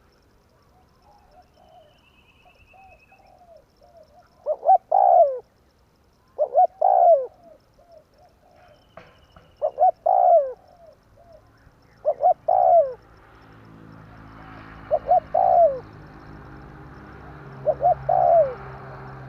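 Spotted dove (tekukur) cooing, a repeated phrase of two or three quick coos and a longer drawn-out one, six times, with softer coos in the first few seconds. A steady low hum and hiss rise beneath it from about two-thirds of the way in.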